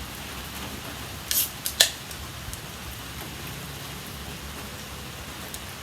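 Steady rain falling, with a few short sharp noises close together about a second and a half in.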